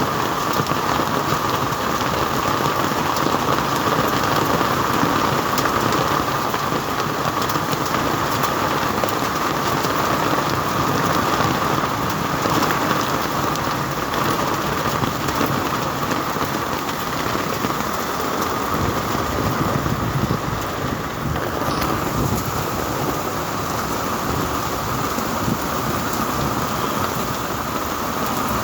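Heavy rain pouring down steadily, a dense, even hiss of rain falling on hard surfaces.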